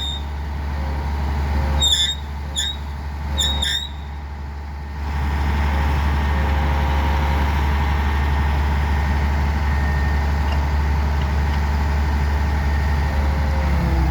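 Steady low mechanical hum, with several short high squeaks in the first four seconds; about five seconds in, the sound grows louder and noisier and then holds steady.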